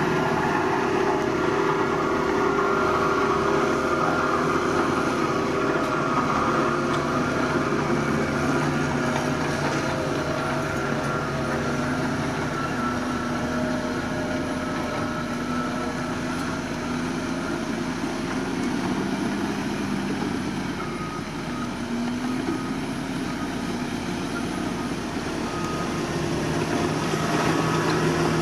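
Diesel engine of a heavy earthmoving machine running steadily, with small rises and falls in engine speed.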